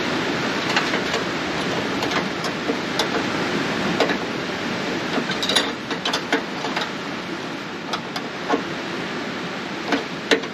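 Scattered small clicks and taps of a hand tool working at a car's interior door handle and its retaining clip, over a steady hiss of rain.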